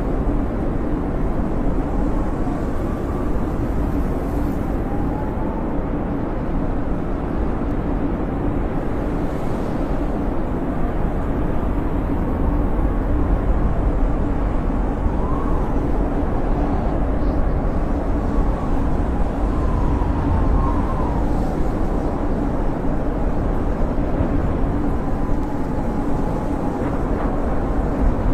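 Blizzard wind howling: a steady low rumble with faint whistling tones that slowly rise and fall.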